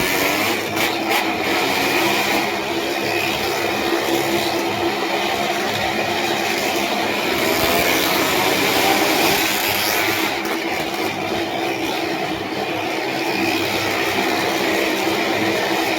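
Motorcycle and car engines running continuously and loudly, a steady engine noise with no breaks.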